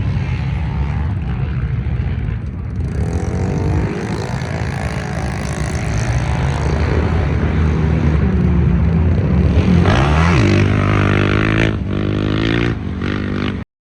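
Off-road racing engines running hard, with one revving up and dropping back about ten seconds in. The sound cuts off suddenly near the end.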